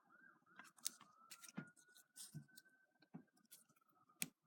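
Near silence with faint, scattered small clicks and rustles of a paper banner and a decorated paper clip being handled and positioned by hand, over a faint steady high tone.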